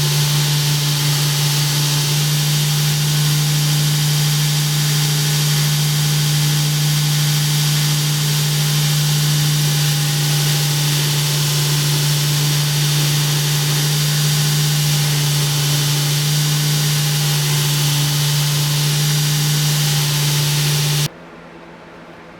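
A shop machine running steadily: a loud, even motor hum with a bright hiss over it, cutting off suddenly near the end.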